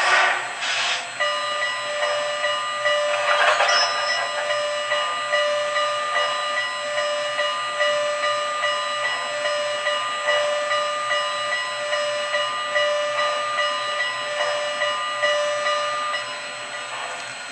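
The onboard sound system of an MTH model Norfolk & Western J-class steam locomotive plays its departure: bursts of steam hiss, then rhythmic chuffing as the train pulls away, under a steady whine of several held tones.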